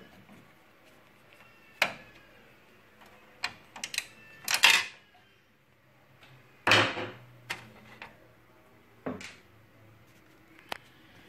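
Irregular sharp clicks and knocks from an HP LaserJet P3005 printer's parts being handled during disassembly, about eight in all, with a louder rattling cluster about four seconds in and another about seven seconds in.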